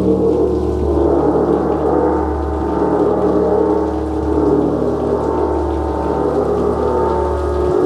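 Gong played continuously: a dense, steady wash of many overlapping sustained tones, with no single strike standing out.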